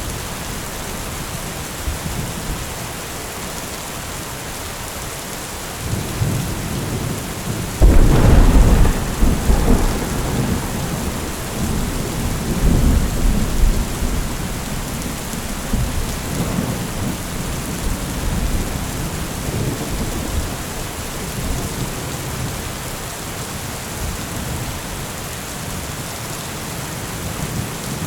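Steady rain falling, with thunder: a sharp, loud crack about a third of the way in that rolls on as a deep rumble, followed by further rumbles.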